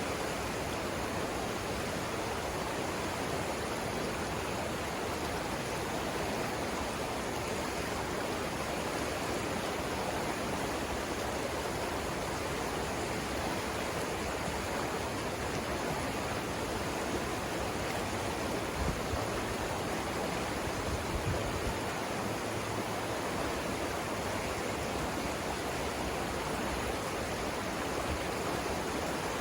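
Savannah River water rushing over rapids: a steady, even rush with no break, and a couple of brief low bumps near the middle.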